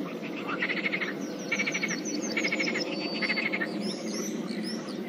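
Pond frogs calling: a dense low croaking chorus with repeated short pulsed calls, about one every second. Small birds chirp high above it through the middle.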